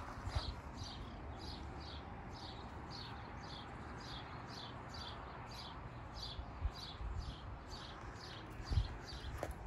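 A bird calling a steady series of short, high, slightly falling chirps, about three a second, over low outdoor rumble. A few soft low thumps come near the end.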